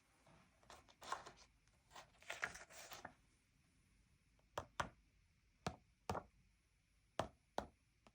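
Hands working a sticker book: a few seconds of scratchy rubbing and peeling on paper, then sharp light taps in pairs, about three pairs.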